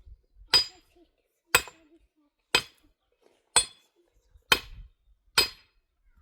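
Stone being struck hard and rhythmically, as when shaping stones for a stove: six sharp, ringing clinks about one a second.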